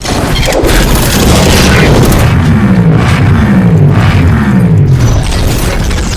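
Motorcycle fitted with an aftermarket performance exhaust, revved loud and deep, its pitch sliding down three times around the middle as the revs fall back.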